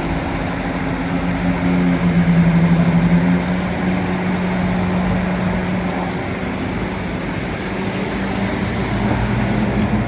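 Bulldozer's diesel engine running under load, its note shifting up and down, with a louder, pulsing stretch about two seconds in.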